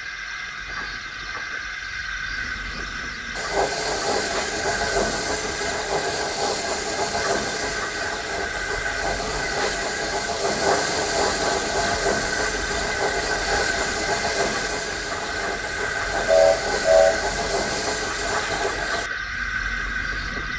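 Steam locomotive sound effect: steady steam hiss and running noise that swells about three and a half seconds in, with two short whistle toots near the end.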